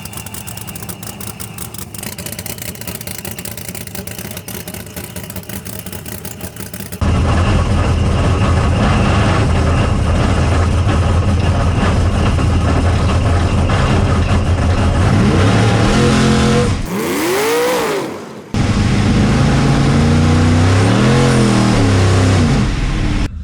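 Supercharged drag race car engine, running at first, then about seven seconds in suddenly much louder at full throttle on a pass. There are pitch changes and a short drop-off near the three-quarter mark.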